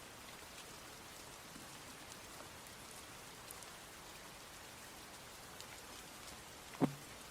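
Steady rain falling, with scattered drops ticking on surfaces. Near the end a sudden loud knock stands out above the rain.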